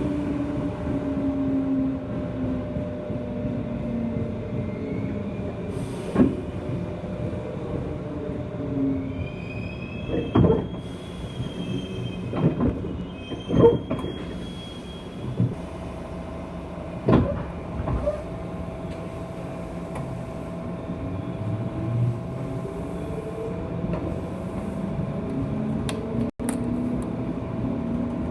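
Running noise inside the motor car of a JR West 201 series electric train: the motor and gear whine falls in pitch as the train slows, then wheels squeal and knock over the rails. A steady tone comes in, and from about two-thirds of the way through the whine rises again as the train powers up.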